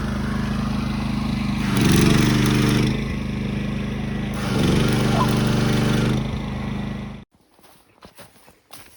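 A small engine running steadily, swelling louder twice, then cutting off suddenly about seven seconds in.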